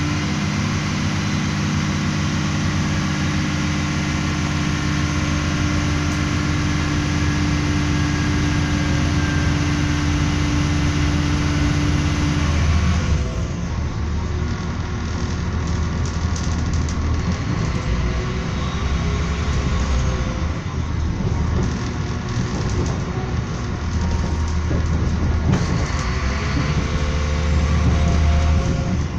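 Moving passenger train heard from inside the carriage: steady rolling noise of wheels on rails under a low, steady hum that stops about halfway through, leaving a rougher rumble.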